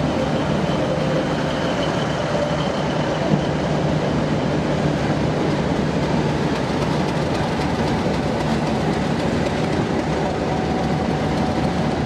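Passenger train running along the line, heard from inside the carriage as a steady rumble, with a faint high whine over the first few seconds that fades away.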